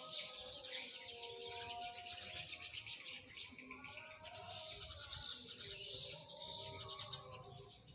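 Swiftlets twittering: a dense, continuous chatter of many rapid high chirps.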